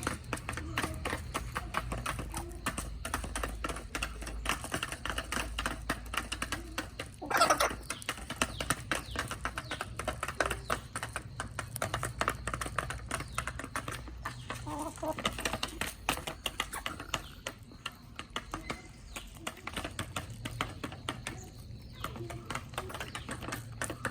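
Backyard chickens clucking softly while pecking at feed, making a dense stream of quick taps, with one loud squawk about seven seconds in.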